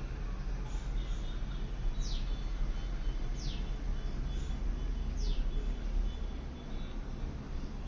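Birds chirping: short, high notes that slide downward, repeated every second or two, over a steady low background rumble.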